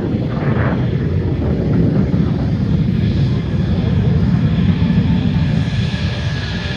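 Aircraft engine noise: a steady low rumble, with a higher hiss that grows stronger about halfway through.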